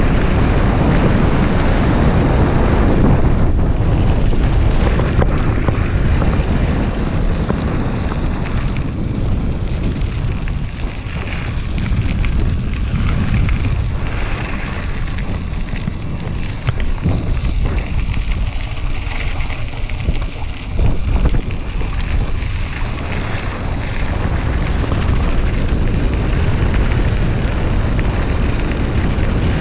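Wind buffeting the microphone of a camera riding along on a bicycle: a loud, steady rumbling rush.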